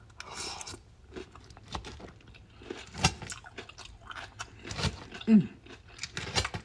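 Close-up crunchy chewing of a raw vegetable salad, with irregular crisp bites and crunches.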